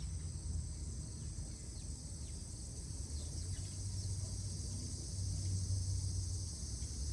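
Steady high insect chorus with a few faint, short bird chirps, over a low steady rumble.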